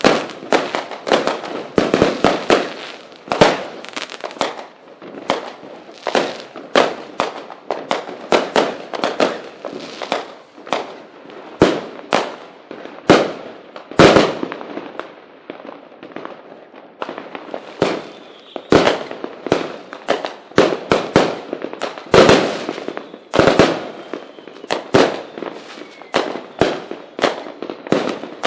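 Fireworks going off: many sharp bangs of exploding shells in quick, irregular succession, with crackling between them and a brief lull about halfway through.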